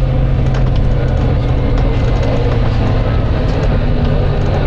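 Volvo B9TL double-decker bus's diesel engine running at a steady speed, a loud even drone with faint rattles over it.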